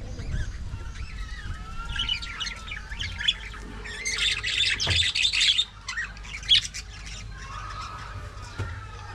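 Budgerigars chattering, with quick overlapping chirps, warbles and squawks. The calling is densest and loudest about halfway through.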